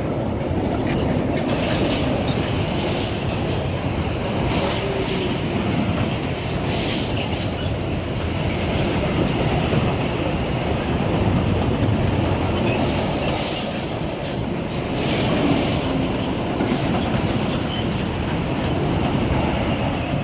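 Long freight train hauled by a Class 66 diesel locomotive passing at speed: a steady heavy rumble of wagons rolling by, with repeated sharp, high-pitched wheel clicks and squeals. It begins to die away right at the end.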